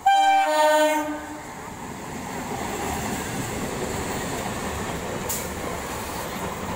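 Electric EMU local train sounding one loud horn blast of about a second right at the start, then the steady running noise of the passing coaches on the rails.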